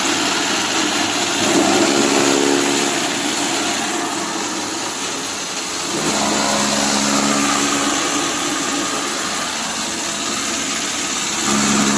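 Motor-driven chaff cutter running over a steady hiss. Its hum shifts pitch every few seconds, going higher about a second and a half in and dropping lower about halfway through.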